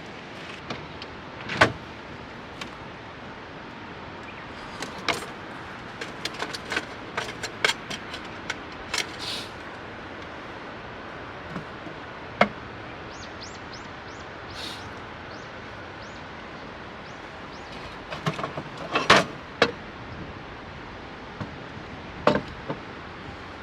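Scattered clicks and knocks of objects being handled, with a louder run of clattering about three-quarters of the way through, over a steady background hiss.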